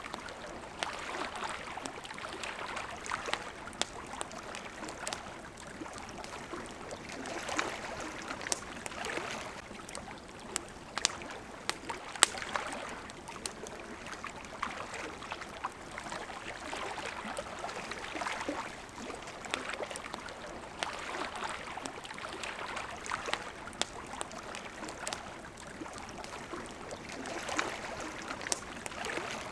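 Water lapping and flowing in gentle swells every few seconds, with the sharp crackles and pops of a wood campfire scattered throughout.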